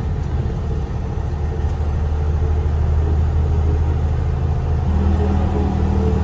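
Semi truck's diesel engine running steadily while driving, a low even drone; a second low tone joins in about five seconds in.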